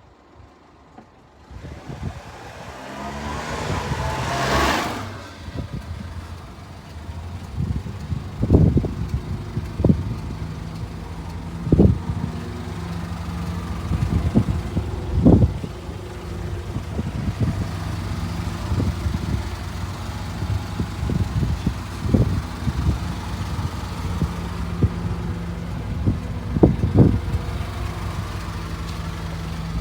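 The 1996 Honda Acty truck's small three-cylinder engine running. It starts with a rising rush a couple of seconds in, then settles to a steady idle broken by short sharp knocks every few seconds.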